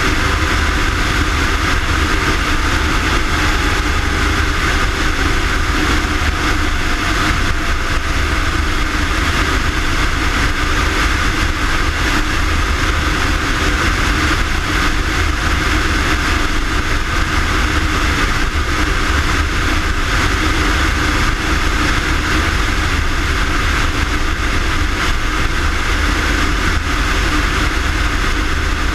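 Steady vehicle engine and road noise with a strong low rumble, unchanging throughout; a faint falling tone passes in the first few seconds.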